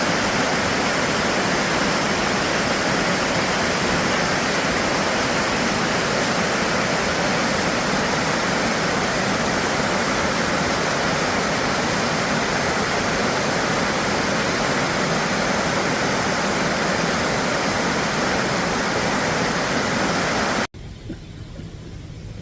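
Steady, loud rushing water. It cuts off suddenly near the end, leaving a quieter low hum.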